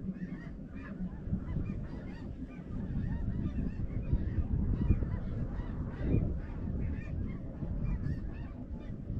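A flock of snow geese calling, a dense chorus of many short overlapping honks that grows louder about three seconds in, over a steady low rumble.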